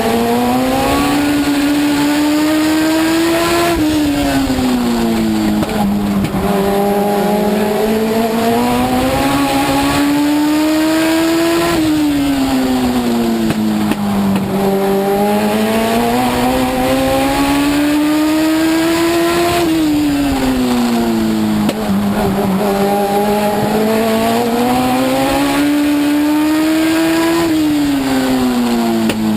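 Legend car's Yamaha four-cylinder motorcycle engine heard from inside the car, running hard. Its pitch climbs steadily, then falls sharply as the driver lifts, repeating about every eight seconds as the car laps a short oval.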